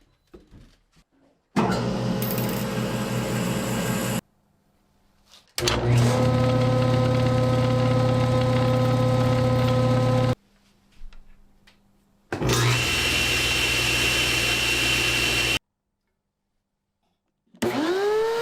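Restored General stationary woodworking machines with helical cutterheads running with a steady whining hum, a sign of smooth running, in several separate stretches that start and stop abruptly. Near the end a motor spins up with a rising whine that levels into a steady tone.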